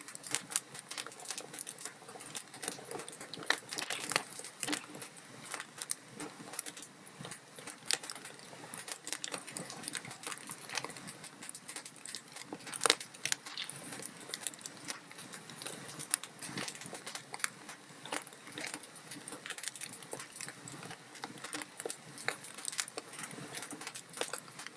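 Wood fire crackling steadily: irregular snaps and pops from burning logs over a faint hiss, with one sharper pop about 13 seconds in.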